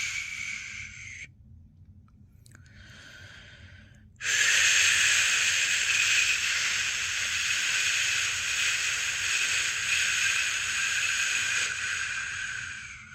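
A person making a long, steady "shhh" shushing sound to soothe a newborn to sleep. One shush trails off about a second in, then comes a faint short one. A long, loud shush starts about four seconds in and fades near the end.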